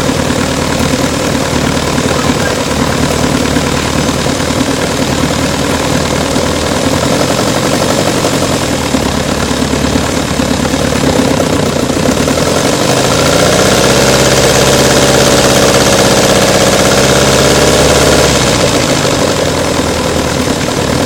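Small scale-model gasoline engine running steadily, fuelled with gasoline and a little oil. Just past the middle it runs up to a higher, smoother speed for about five seconds, then drops back to its earlier pace.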